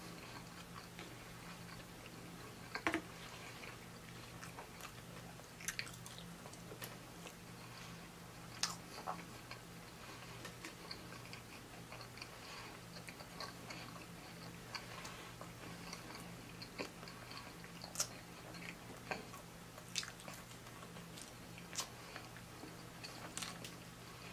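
A person chewing and biting pepperoni pizza, with irregular sharp wet mouth clicks and smacks, over a low steady hum.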